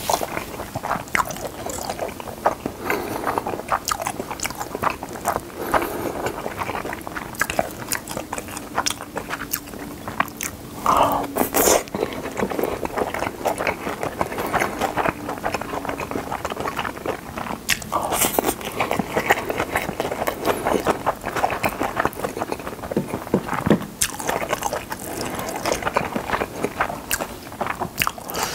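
Close-miked chewing and wet mouth sounds of a person eating Spam kimchi fried rice, with a plastic spoon now and then scraping and clicking against the plate.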